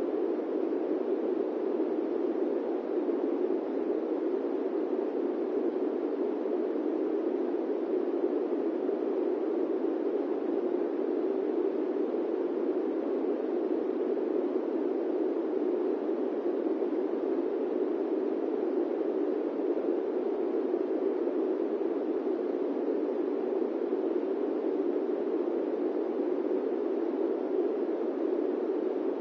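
Steady airplane cabin noise: an even rushing hiss, strongest in the low-middle range, that never changes.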